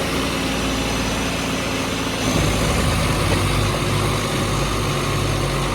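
Diesel tractor engines running steadily under load, pulling against each other in a tug-of-war. The engine note changes about two seconds in.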